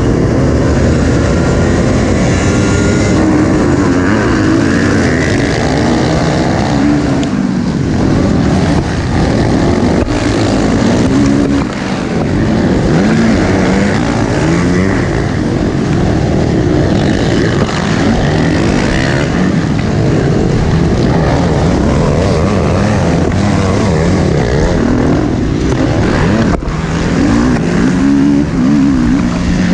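A full gate of motocross dirt bikes racing, many engines revving at once, their pitches rising and falling and overlapping as the riders shift and throttle.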